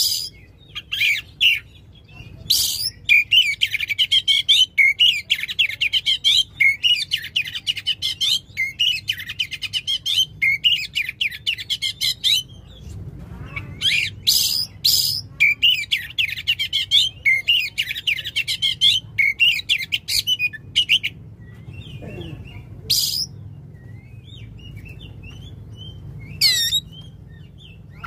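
Oriental magpie-robin singing in long, rapid bursts of chattering, warbled notes mixed with sharp, high whistles, with a few seconds of near pause late on.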